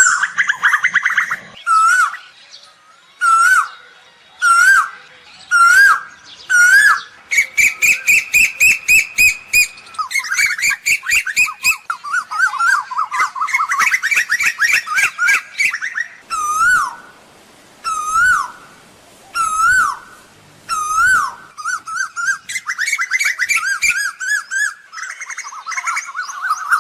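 Asian koel calling: short, rising whistled notes repeated about once a second, broken up by fast, rapid runs of notes.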